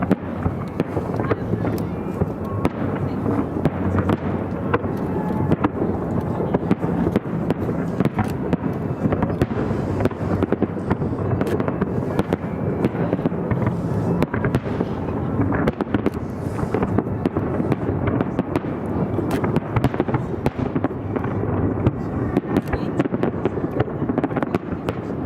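A fireworks display: a continuous barrage of shells bursting and crackling, many sharp bangs overlapping with no pause.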